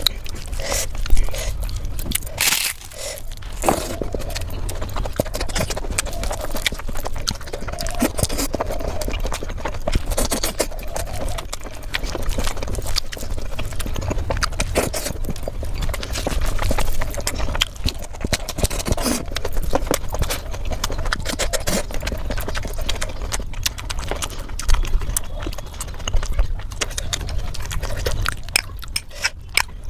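Close-miked mukbang eating: chewing and wet mouth smacks, a steady run of short clicks.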